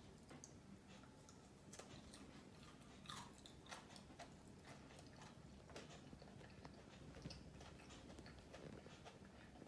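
Faint close-up chewing and biting of KFC chips, with scattered small crunches and mouth clicks.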